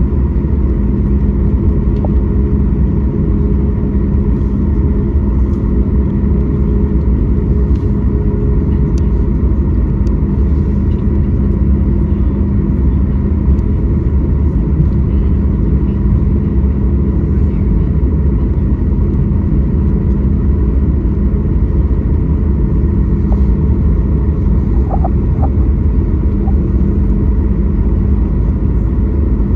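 Cabin noise inside a Boeing 737 MAX 8 airliner: the steady drone and rumble of its CFM LEAP-1B turbofan engines and airflow, with a few steady hums and no change in pitch.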